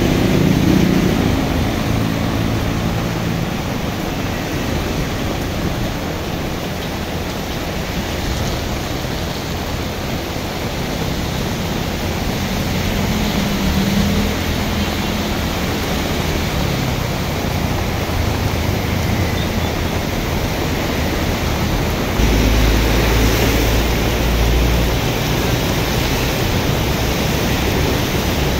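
Heavy tropical rain pouring steadily onto a road, with motorcycles and cars passing through it and tyres hissing on the wet asphalt. A deeper low rumble comes in about three-quarters of the way through.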